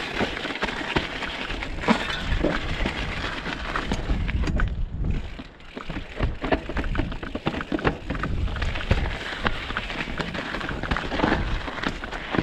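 Mountain bike clattering down a rough, rocky trail: tyres knocking and crunching over stones, with the bike's chain and frame rattling. It eases briefly about five seconds in, then the rattling picks up again.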